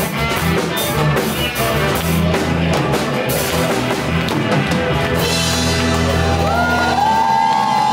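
Live rock band playing an instrumental passage: drum kit, bass and electric guitar, with long held, bending melody notes coming in about six seconds in.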